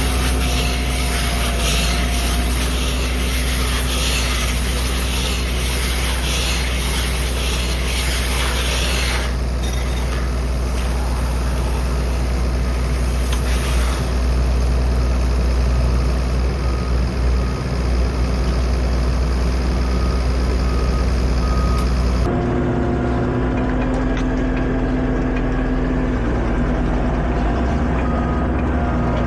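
Diesel tractor engine running steadily under load, with a constant low hum and hiss. About three-quarters of the way through the sound changes abruptly: the high hiss drops away and the engine note carries on more plainly.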